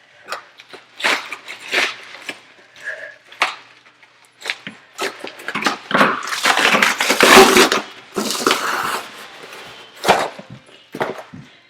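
Parcel packaging being torn open and unwrapped by hand: irregular crinkling, rustling and tearing, with a loud, dense stretch of tearing past the middle.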